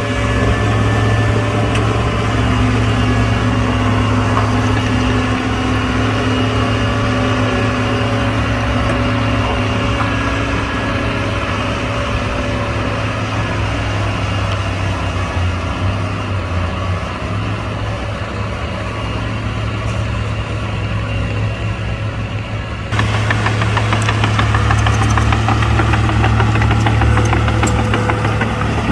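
Diesel engines of heavy earthmoving machinery running steadily with a low drone. About three-quarters of the way through the sound changes abruptly, becoming louder with more clatter.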